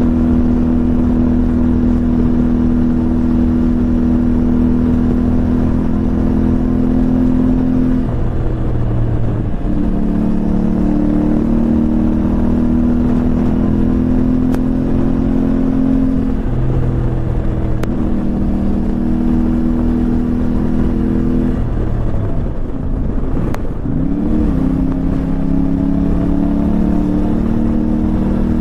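Motorcycle engine running at steady cruising speed over a constant rush of wind and road noise. The engine note breaks and shifts pitch three times, about 8, 17 and 23 seconds in, as with gear changes or throttle changes, then settles again and rises slowly.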